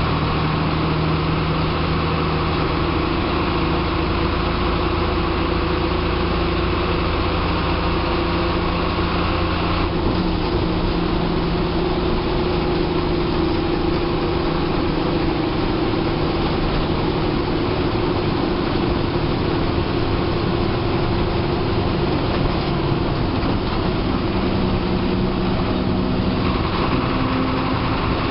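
Bus diesel engine running steadily while the bus is under way, with road noise, heard from the driver's cabin. The engine note shifts about ten seconds in and again near the end.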